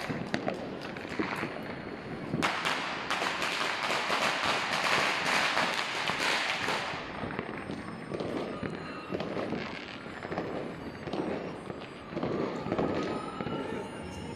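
Fireworks and firecrackers going off in a dense, continuous crackle of many rapid pops, heaviest from about two and a half seconds in until about seven seconds, then thinning to scattered pops.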